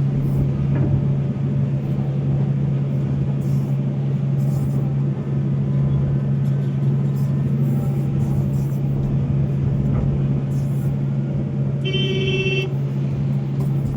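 Volvo excavator's diesel engine running steadily at working speed as it digs and loads. A short pitched beep sounds near the end.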